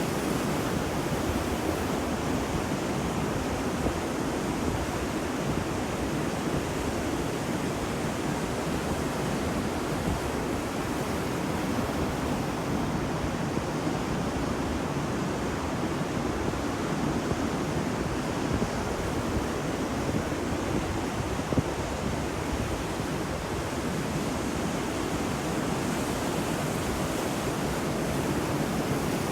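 Ocean surf washing continuously onto a beach, a steady rushing wash without distinct breaks.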